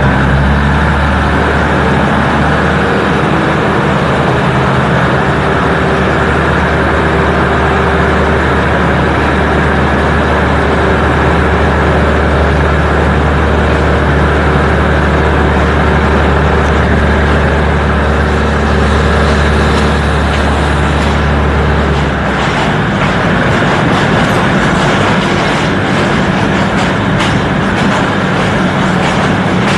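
A diesel train's engine running with a steady deep hum. About 22 seconds in the hum drops away and a noisier running sound carries on.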